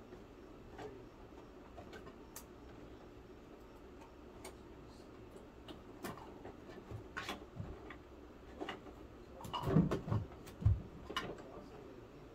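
Light plastic clicks and taps from a Bruder toy garbage truck and its bins being handled, with a few louder knocks about ten seconds in.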